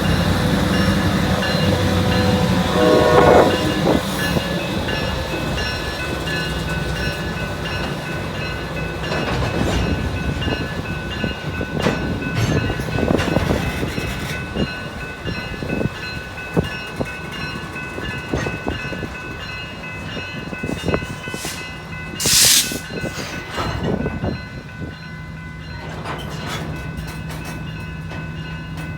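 Diesel genset switcher locomotive working a cut of grain cars: the engine runs steadily while the cars roll, with a steady high squeal over it and scattered knocks and clanks. A short sharp hiss comes about 22 seconds in.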